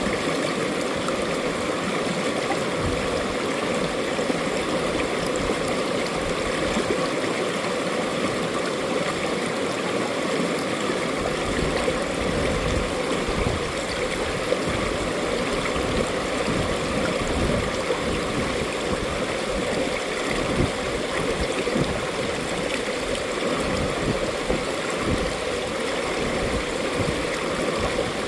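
Mountain valley stream flowing steadily, a continuous rush of water with trickling and gurgling, and a little more low rumble from about eleven seconds in.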